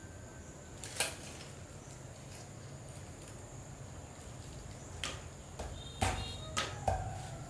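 Six sharp knocks and clicks, the loudest about a second in and a cluster near the end, over a steady low hum.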